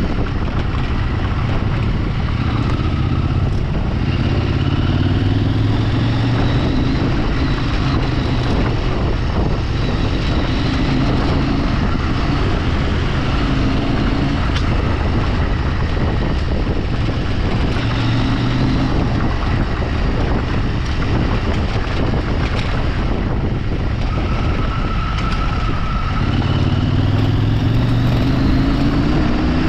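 A vehicle engine under way, rising in pitch as it accelerates and dropping back several times, over a steady rumble.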